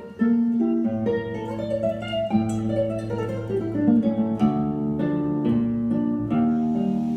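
Background music played on acoustic guitar, plucked melody notes over a bass line.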